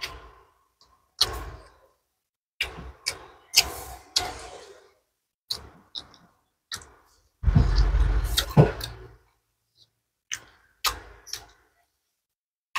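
A person eating rice and fish by hand close to the microphone: scattered short chewing and mouth clicks, with a longer, louder bout of chewing a little past the middle.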